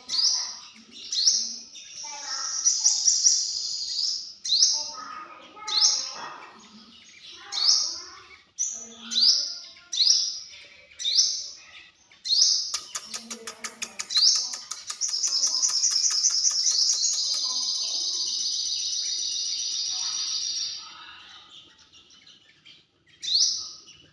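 Sunbird calling: sharp, high, rising chip notes about once a second. About halfway through comes a rapid run of ticking notes that leads into a long, fast trilled song lasting several seconds, then a single chip near the end.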